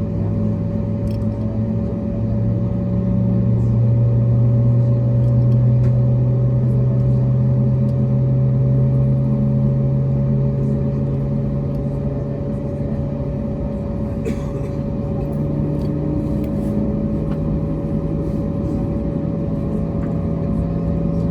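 Airbus A321neo engines and airframe heard from inside the passenger cabin: a steady low hum that drifts slightly in pitch, over a continuous rumble, with a steady higher tone and a few faint clicks.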